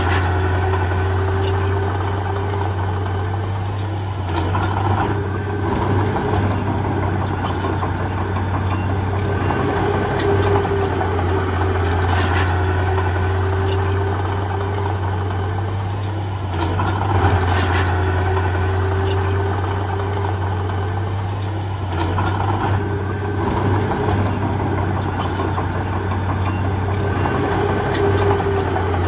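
Heavy diesel engine of earthmoving machinery running continuously, its note swelling and easing slightly every few seconds as it works under varying load.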